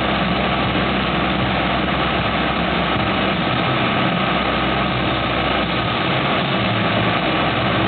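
Crane truck engine running steadily.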